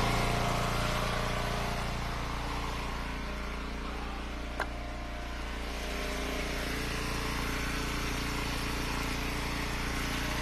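Gas engine of an Eastonmade Ultra wood splitter running steadily, easing slightly in level midway and picking back up, with a single sharp click about four and a half seconds in.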